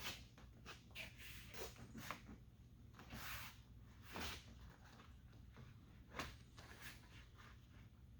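Faint scattered clicks, taps and rustles of a plastic door trim piece being handled and pressed onto a pickup truck door, with a short scraping hiss about three seconds in.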